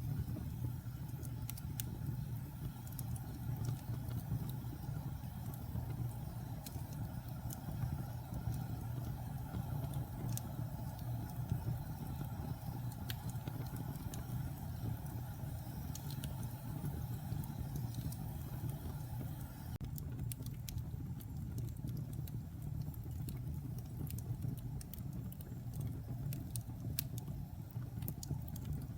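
Wood fire burning in a fireplace: a steady low roar with scattered sharp crackles and pops throughout.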